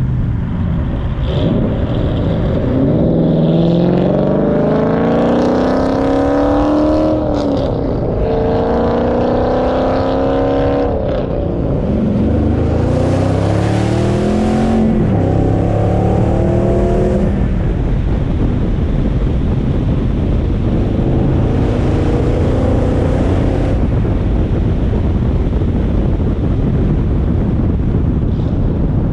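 Dodge Challenger Hemi V8 accelerating hard through the gears: the engine note rises in three pulls, dropping at each shift about 7, 11 and 15 seconds in. It then settles into a steady cruise under road and wind noise.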